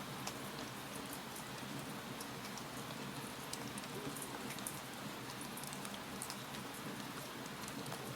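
Wood fire crackling in a fireplace: a steady hiss with many small, sharp pops scattered throughout.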